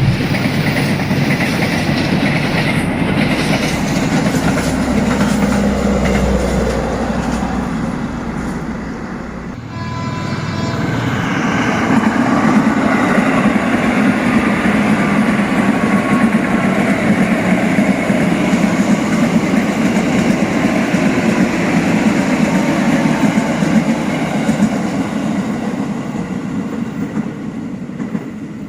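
A train running past on the rails, its wheels and cars rumbling steadily. The sound dips briefly about nine seconds in, then the train noise picks up again and carries on.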